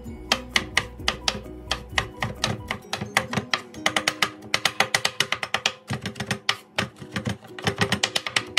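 Kitchen knife rapidly chopping garlic on a wooden cutting board: quick, sharp knocks several times a second, with background music playing under them.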